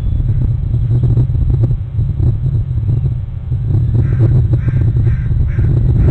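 A bird calling in a quick series, about two calls a second, starting about four seconds in, over a steady low rumble.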